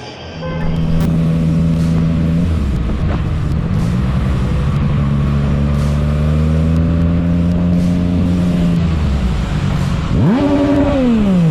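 Motorcycle engine running at a steady pitch that shifts a few times, then a quick rev up and back down about ten seconds in.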